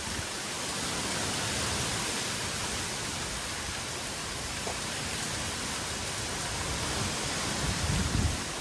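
Heavy tropical rain falling in a steady, dense hiss, with a brief low rumble near the end.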